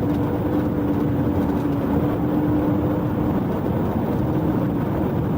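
Police cruiser running at high speed in a pursuit, its engine, road and wind noise heard from inside the car, with a steady drone that fades out about three to five seconds in.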